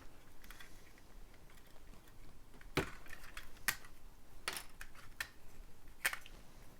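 Plastic Lego pieces clicking and tapping as they are handled and pulled apart, about five sharp clicks roughly a second apart.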